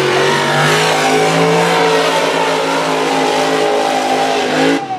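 Mega truck engine running loud at high revs, its pitch holding with small wavers. Near the end it cuts off suddenly into another engine sound whose pitch falls.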